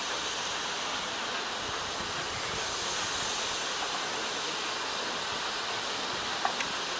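Steam hissing steadily from Taff Vale Railway O2 class 0-6-2T tank locomotive No.85, with a couple of sharp clicks near the end.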